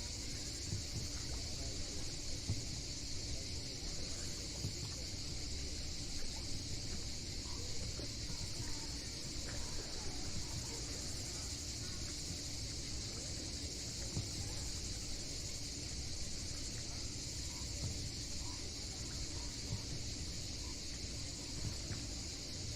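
A steady, unbroken chorus of cicadas buzzing, over a low, uneven rumble.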